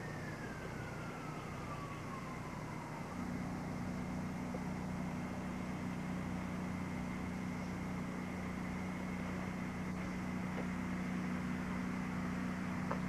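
A siren winding down, its pitch falling over the first three seconds, followed by a steady low hum to the end.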